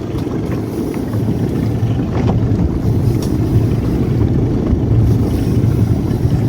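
Steady low rumble of a boat's engine running, with wind on the microphone.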